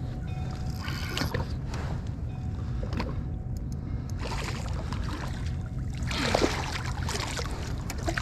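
Wind rumbling on the microphone over water lapping and splashing around a kayak, with a burst of louder splashing about six seconds in.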